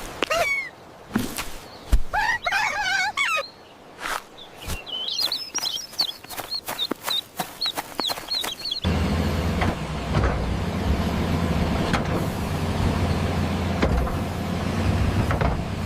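Cartoon sound effects: clicks and knocks with clucking and chirping calls. About nine seconds in, a tractor engine starts running steadily.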